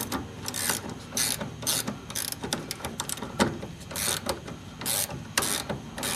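Ratchet wrench with a 13 mm socket tightening nuts on a car's front suspension. The handle is worked back and forth, giving bursts of pawl clicking about twice a second.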